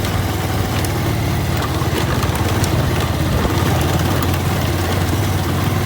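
Motorcycle engine running steadily at low speed on a rough dirt track, with a few light knocks.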